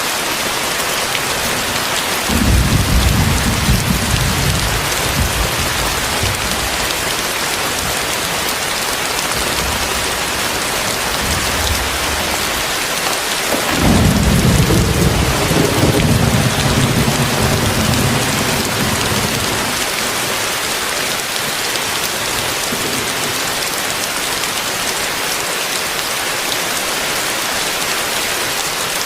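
Heavy rain pouring steadily, with two low rolls of thunder: a short one about two seconds in and a longer one about halfway through that fades away over several seconds.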